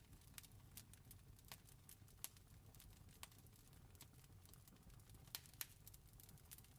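Faint campfire crackling: irregular sharp pops and snaps of burning wood over a low steady rumble, with a few louder pops.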